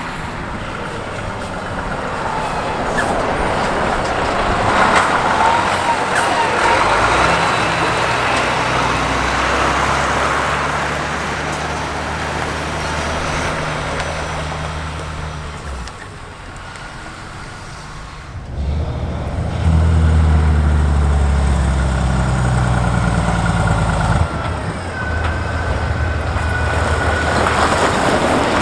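Heavy diesel trucks driving past, a low engine drone over tyre and road noise, coming in two spells with a quieter gap about sixteen to eighteen seconds in.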